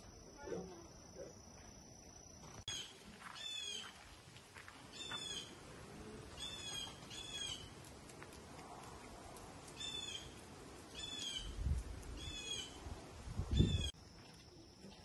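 Animal chirping calls, about ten short, high, falling notes, some single and some in quick pairs. Two low rumbles come near the end.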